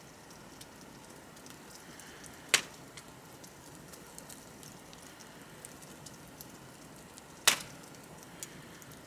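Wood bonfire crackling: a soft steady hiss with scattered small ticks, and two loud sharp pops from the burning wood, one about two and a half seconds in and one near the end.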